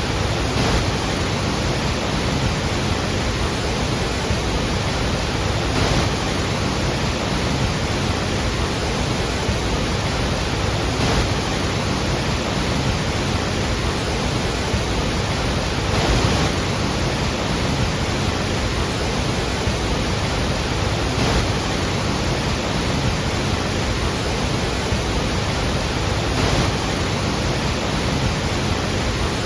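Iguazu Falls: a loud, steady rush of falling water, with slight swells about every five seconds.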